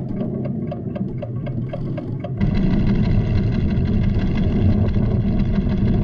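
Cartoon soundtrack: rapid, even ticking, about four or five ticks a second, over a low rumble. The ticking stops about two and a half seconds in, and a louder rumble with sustained orchestral music takes over.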